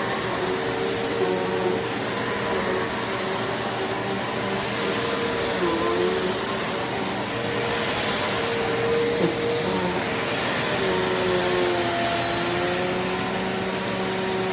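Eureka PowerSpeed bagless upright vacuum cleaner running steadily: a constant rush of air with a high, thin motor whine over it.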